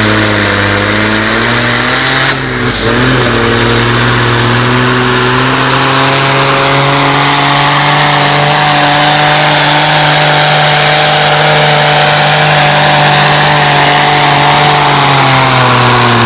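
A pulling tractor's engine held at high, nearly steady revs during a tractor-pull run. There is a brief dip in loudness about two and a half seconds in.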